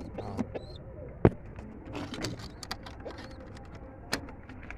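Pigeons cooing faintly, broken by a few sharp clicks and knocks; the loudest knock comes about a second in.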